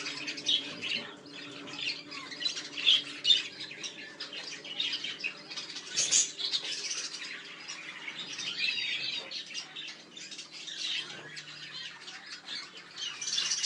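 Budgerigars chattering: a constant run of quick high chirps and squawks, with a few louder calls standing out.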